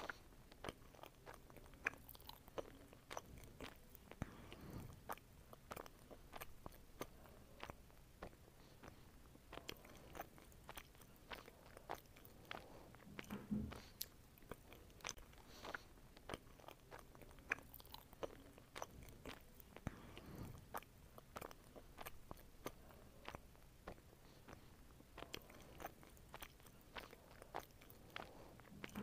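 A person biting and chewing fruit close to the microphone, faint: a steady run of small sharp clicks and crunches, with a few duller low sounds in between.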